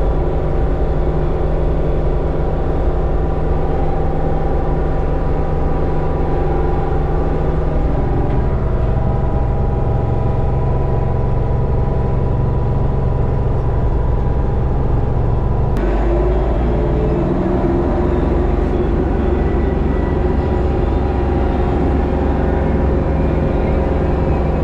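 LS MT232 subcompact tractor's three-cylinder diesel engine running steadily under load while brush hogging, the rotary cutter driven off the PTO. The engine note shifts about eight seconds in and again about sixteen seconds in.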